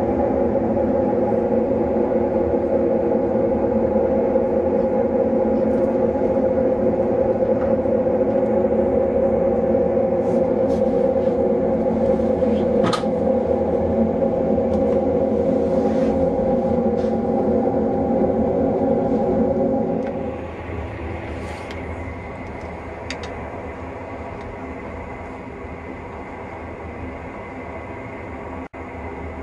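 Passenger train running along the track, heard from inside a carriage: a steady rumble, loud for the first twenty seconds or so, then dropping to a quieter running noise, with a sharp click about halfway through the loud part.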